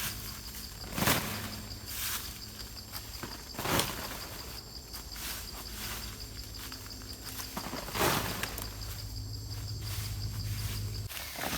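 Forest ambience: an insect chirping in a fast, even, high-pitched pulse, with a few sharp knocks, the loudest about a second, four seconds and eight seconds in.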